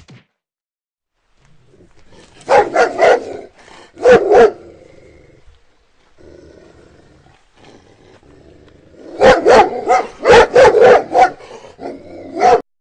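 A dog barking in quick runs of loud barks, in two bouts: a short one a few seconds in and a longer one near the end.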